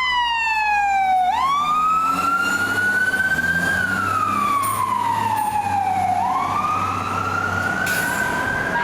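Fire truck siren on a slow wail. The pitch falls, sweeps back up about a second in, glides down again and climbs near the end, with a low engine rumble underneath.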